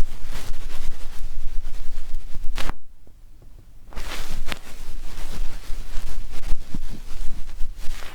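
Ear-pick scraping and rubbing held close against a microphone: ASMR ear-cleaning sounds, scratchy with small clicks. It comes in two long stretches, with a pause of about a second near three seconds in.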